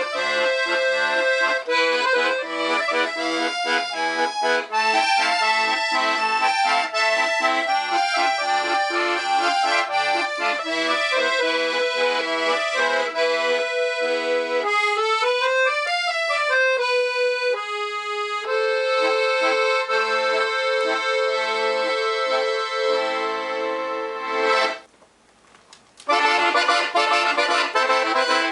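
Black Parrot piano accordion with three-voice LMM treble reeds being played: chords over a pulsing bass-button accompaniment. In the middle comes a run up and back down, then a long held chord and a brief stop about 25 seconds in before the playing starts again.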